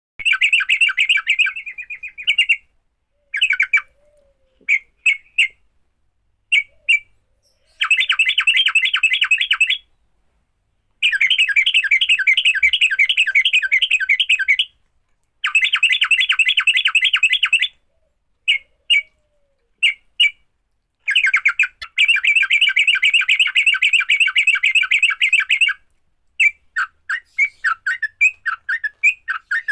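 Sooty-headed bulbul (trucuk) fighting calls: loud bouts of rapid chattering notes lasting a few seconds each, broken by short pauses and single short notes, turning to a string of separate notes near the end.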